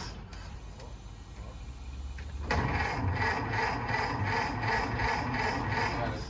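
Old Ford truck engine being started: a low hum, then about two and a half seconds in a louder rhythmic chugging of about three beats a second as it turns over.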